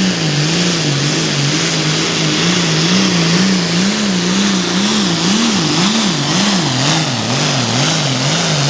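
John Deere 4455 Hot Farm pulling tractor's diesel engine at full load pulling the sled. Its pitch swings up and down over and over, wider and faster midway, about two swings a second, as the tractor hops on the track.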